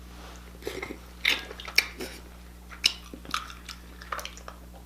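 Close-miked chewing and biting of shellfish meat, a series of short wet smacks and clicks at an irregular pace.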